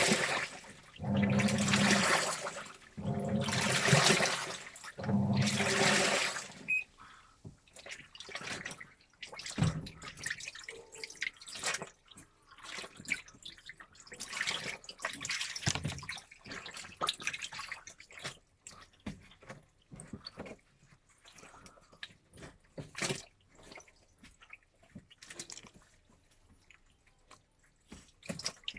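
Front-loading washing machine washing a load: the drum turns in bursts about every two seconds, each with a motor hum and water sloshing, then quieter irregular splashing and dripping.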